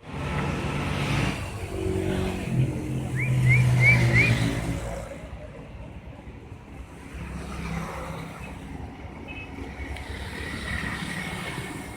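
A motor vehicle's engine going by close, building to its loudest about four seconds in and then fading away, with four quick rising chirps heard over it at its loudest.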